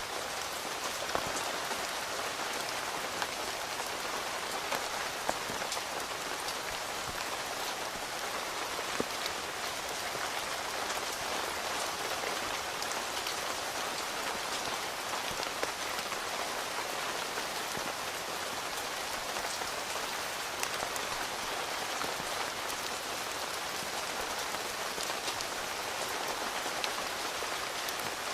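Steady rain falling on a tent, heard from inside, with a constant hiss and single drops striking sharply here and there.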